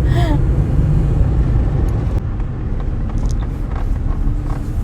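Steady low rumble of a car driving on the road, heard from inside the cabin: engine and road noise.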